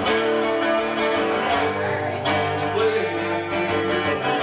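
A song backed by strummed acoustic guitar, with singing between the lyric lines.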